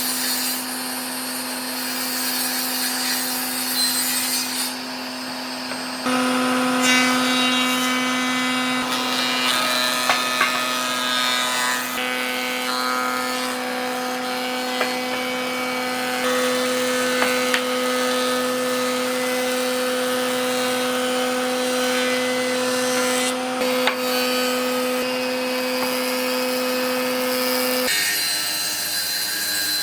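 Electric power tool running steadily against wood, a constant motor hum over a rough grinding and rubbing noise. The tone gets louder at about six seconds and the motor sound drops away shortly before the end.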